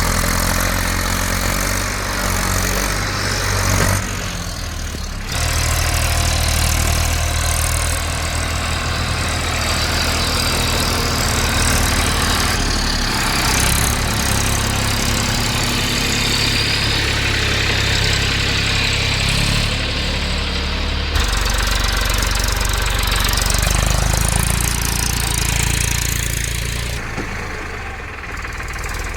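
Tractor diesel engine running loudly and steadily with a low throb, as from a stuck tractor working to pull free. The engine note changes abruptly several times, as between cuts.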